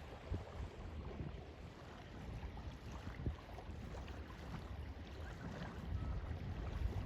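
Small waves lapping and splashing at the lake's edge in irregular little slaps, over a low wind rumble on the microphone.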